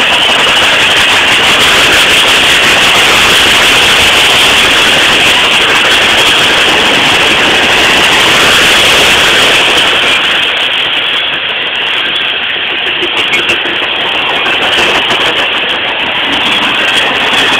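Freight train cars rolling past: a loud, steady noise of steel wheels on the rails, easing slightly about ten seconds in.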